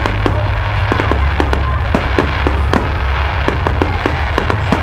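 Fireworks going off in a rapid, continuous string of sharp bangs and pops, several a second, over a constant deep rumble.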